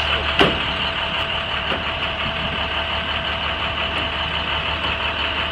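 International DT466 diesel engine idling steadily, with one sharp click about half a second in.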